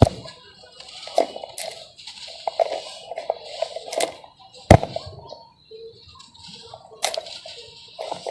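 Chunks of dry sand-cement crumbling as they are broken, a gritty crackle broken by several sharp snaps of pieces cracking apart, the loudest a little under five seconds in.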